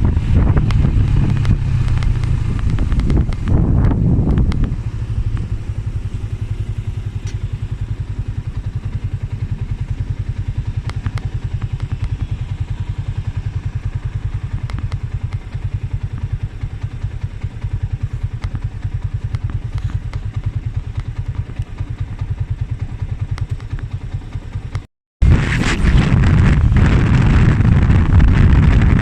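Motorcycle engine with wind noise while riding, then settling to a quieter, even low pulsing, as at idle, for about twenty seconds. After a brief dropout near the end it is riding again with wind noise.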